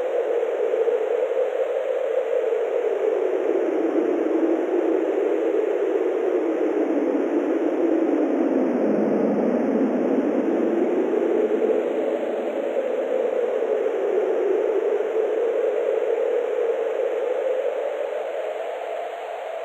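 Wind blowing steadily, a whooshing rush whose pitch sinks slowly to a low point about nine seconds in and then rises again.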